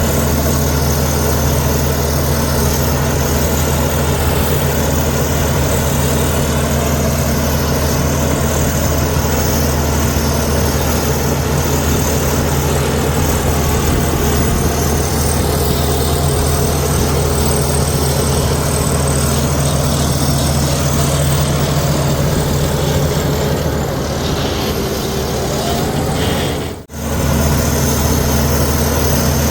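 Komatsu D61EX bulldozer's diesel engine running steadily under work, with a brief sharp drop in sound about 27 seconds in, a cut in the recording.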